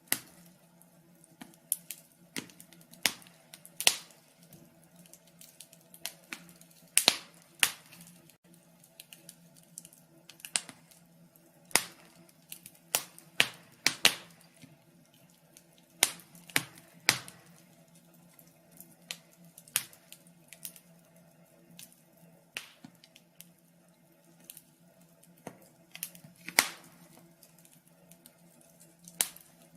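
Wood fire crackling: irregular sharp pops and snaps, sometimes several in quick succession, over a faint steady low hum.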